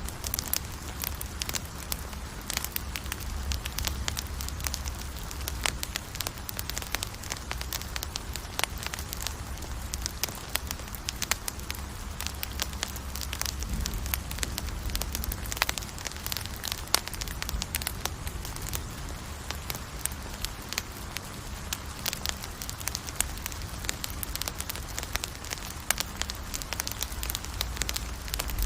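Campfire crackling: a dense, irregular stream of sharp snaps and pops over a steady low rumble.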